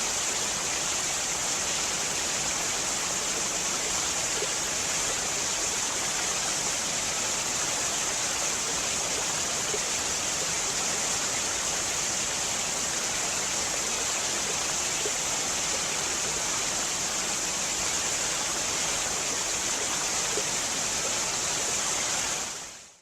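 A steady rushing hiss with no pitch to it, strongest high up. It cuts in suddenly and fades out near the end.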